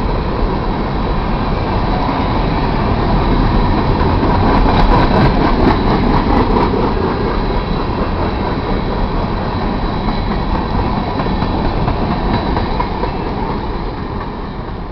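BNSF freight train's open-top hopper cars rolling past on steel wheels: a dense, steady rumble and rail clatter with a faint high whine. It grows a little louder about five seconds in, then fades toward the end as the last car of the train goes by.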